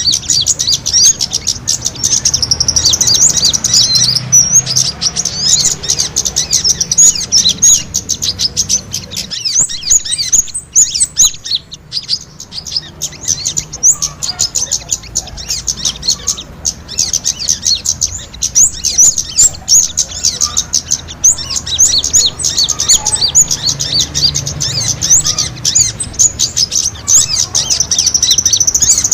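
Small birds twittering in a dense run of rapid, high chirps and short trills, the agitated calling of small birds squabbling that is used as a lure (pikat) to attract wild birds. The chirping thins out briefly about a third of the way in.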